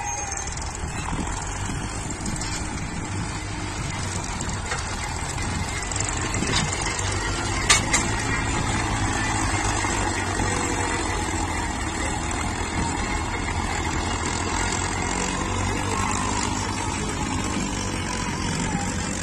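Tractor diesel engine running steadily while pulling a land leveler, with a single sharp clack about eight seconds in.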